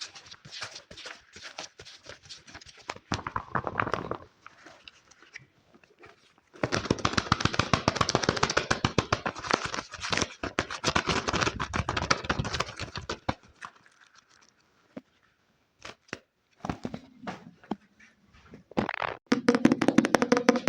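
Fast ASMR tapping and scratching on objects close to the microphone. It comes in bursts, with a long run of very rapid taps in the middle, a few scattered clicks after it, and more tapping near the end with a faint ringing pitch.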